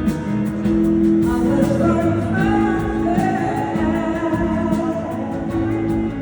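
A small live band plays a slow soul ballad, with held chords and guitar under a singer. The sung melody rises in about two seconds in.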